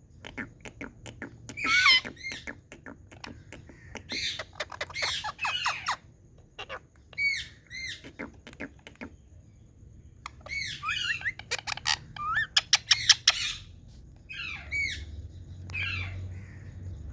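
Indian ringneck parrot squawking and chattering in repeated bursts of short, sharply rising and falling screechy calls, with brief pauses between the clusters.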